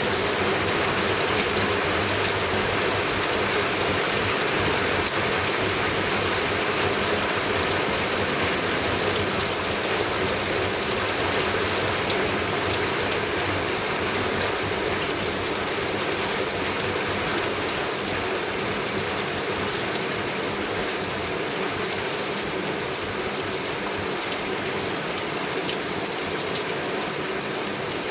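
Heavy rain falling steadily, a dense patter of countless drops striking a surface, easing slightly toward the end.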